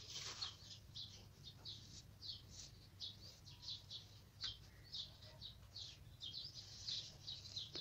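Faint bird chirps, short and high, about two or three a second in an uneven run.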